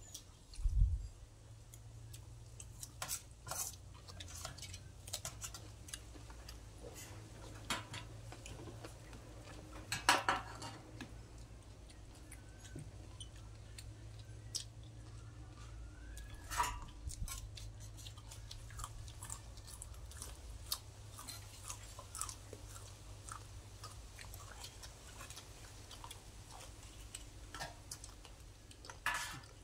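People chewing and eating fish curry, with scattered short mouth clicks and a few louder smacks. A steady low hum runs underneath.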